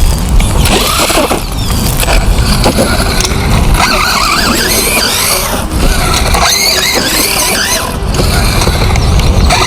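Sensored brushless electric motor of an X-Ray XB8 EC RC truck whining, its pitch rising and falling again and again with throttle, over a steady low rumble of the truck running on desert dirt.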